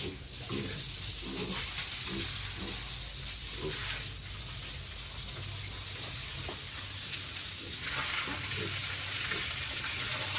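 Water spraying from a hose in a steady hiss.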